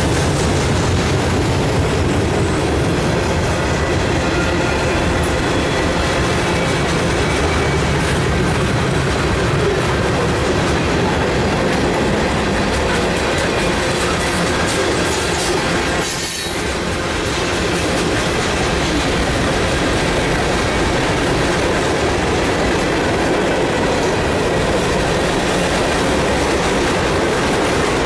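Freight cars of a mixed freight train rolling past close by: a steady rumble of steel wheels on the rails, with clicks over the rail joints and a faint, thin wheel squeal.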